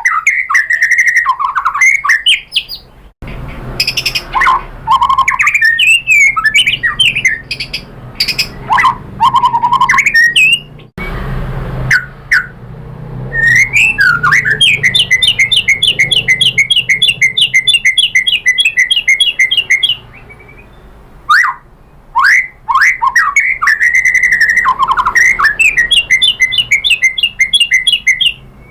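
White-rumped shama (murai batu) singing loudly: varied whistled phrases with quick up-and-down sweeps, and a long rapid run of evenly repeated notes, about five a second, lasting some six seconds in the middle.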